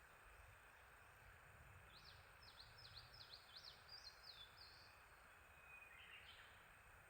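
A small songbird singing faintly over a steady background hiss: a phrase of about six quick rising-and-falling notes starting about two seconds in, then a shorter, lower call near the end.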